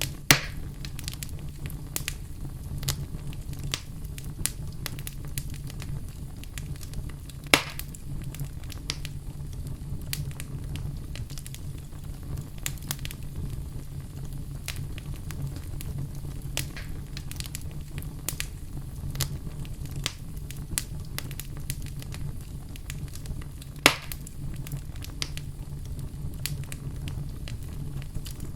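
Wood fire crackling, a steady low rumble under scattered small snaps, with three louder pops: just after the start, about seven seconds in and near twenty-four seconds.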